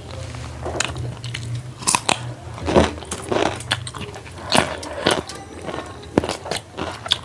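Close-up mouth sounds of a person eating: irregular bites and chewing, with some crunches.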